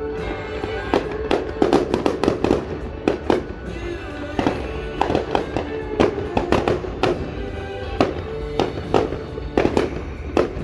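Fireworks going off in rapid, irregular succession, a dense run of sharp bangs and pops, over music playing steadily underneath.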